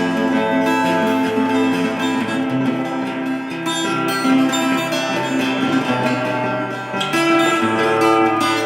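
Acoustic guitar music: a solo guitar plucking and strumming chords and melody notes.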